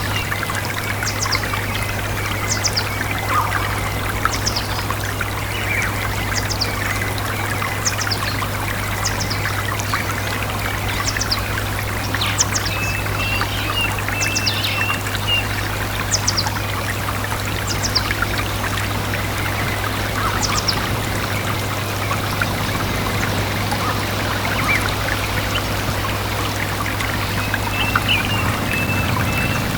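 Stream water running steadily, with a bird repeating a short high falling call every second or so, and brief warbling phrases from a bird at the start, in the middle and near the end.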